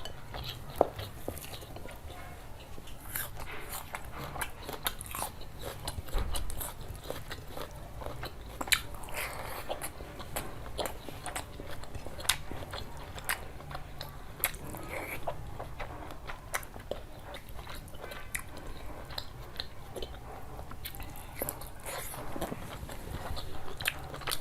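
A person chewing and biting food close to the microphone, with many irregular wet clicks and crunches. Under it runs a steady low hum.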